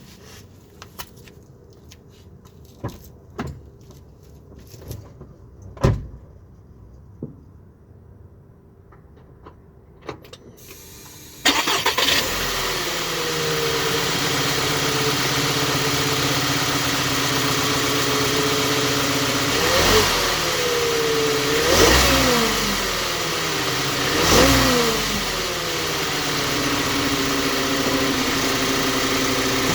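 A few scattered clicks and a knock, then about eleven seconds in the 2011 Volkswagen Tiguan's engine starts and settles to idle. It is revved three times in quick succession, up to about 3,000 rpm and back down, then idles steadily.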